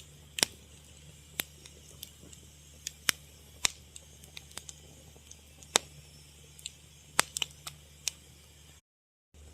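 Fire crackling: irregular sharp pops and snaps, sometimes several close together, over a low steady hum. The sound drops out completely for about half a second near the end.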